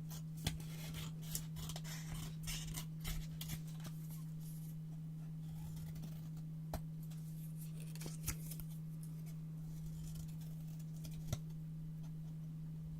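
Scissors cutting paper close up: a quick run of snips and paper rustling in the first few seconds, then single crisp snips a second or more apart. A steady low hum runs underneath.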